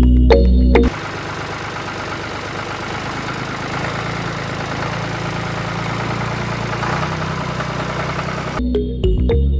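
Music for about the first second, then the small motor of a homemade miniature chaff cutter running steadily for about eight seconds, a mechanical whirr over a low hum. The music comes back near the end.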